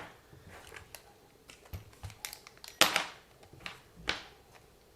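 Handling noises from a small RC car being turned over and inspected on a workbench: a few scattered clicks and knocks, the loudest a little before three seconds in.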